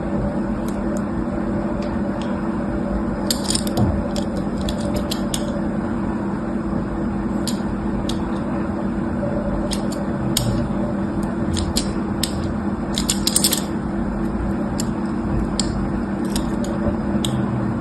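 Irregular light clicks and rattles of small objects being handled, with a few quick clusters, over a steady low hum.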